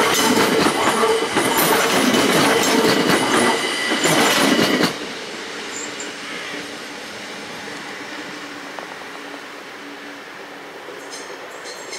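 SNCB AM 08 Desiro electric multiple unit passing close at speed: loud rolling noise with wheels clattering over the rail joints and steady high whining tones. About five seconds in the sound drops abruptly to a much quieter train rumble with a low hum, and faint rhythmic clicks come in near the end.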